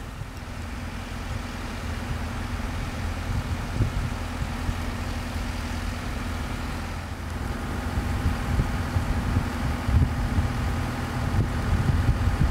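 An engine running steadily at an even pitch, with wind rumbling on the microphone.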